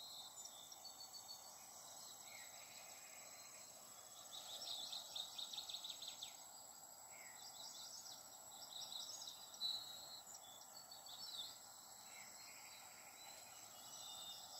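Faint background hiss with a thin steady high whine, and scattered chirps and quick trills of distant birds, busiest about four seconds in and again around nine to eleven seconds.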